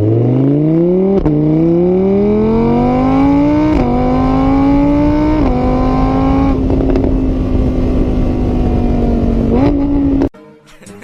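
An engine revving up through the gears. Its pitch climbs, dips at each shift about one, four and five and a half seconds in, then holds steady at high revs before cutting off abruptly near the end.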